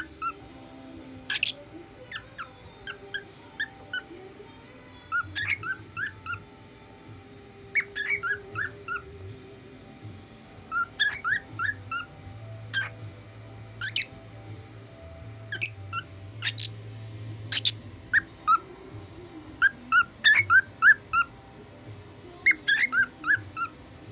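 Male cockatiel singing: phrases of short whistled chirps, several in quick succession, repeated every couple of seconds, with a few sharp high notes among them.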